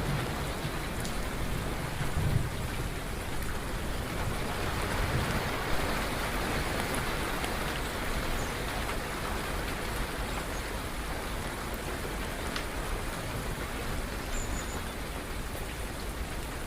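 Steady rain falling, with a low rumble of thunder dying away in the first couple of seconds.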